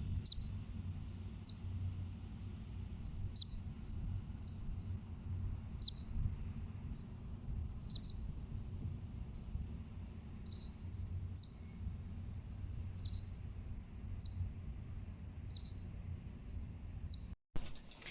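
A small bird giving short, high chirps, repeated irregularly about once a second, over a faint low background rumble.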